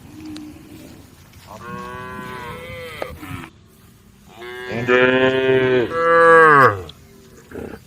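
Cows mooing: a faint short moo near the start, a second moo a couple of seconds in, then a loud, long moo about halfway through that falls in pitch as it ends.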